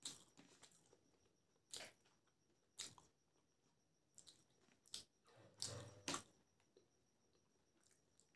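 Close-miked eating sounds: a handful of separate short crunches and wet mouth smacks while chewing biryani and raw green chilli, with a cluster of them about five to six seconds in.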